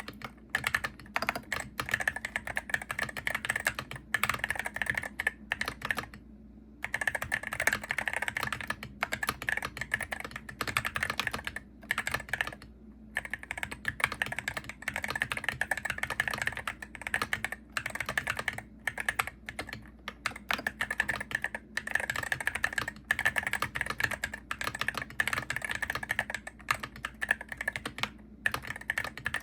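Fast, steady typing on a Hero68HE gaming keyboard: a dense run of key clicks, broken by brief pauses about six and twelve seconds in.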